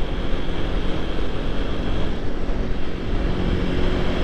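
Supermoto motorcycle engine running steadily under way, with wind rushing over the rider's microphone.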